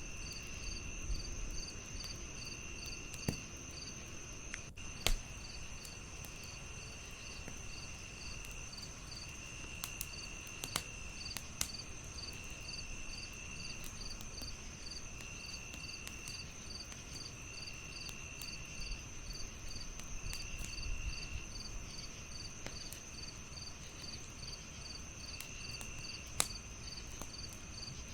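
Crickets and other insects chirping steadily in layers: a continuous high trill, a chirp pulsing about three times a second, and a lower call that comes in spells of about a second every two seconds or so. Scattered sharp pops and crackles of a wood fire sound through it, two louder pops standing out about five seconds in and near the end.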